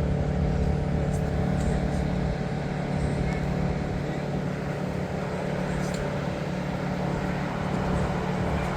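Steady low engine rumble with a constant droning hum that holds level throughout.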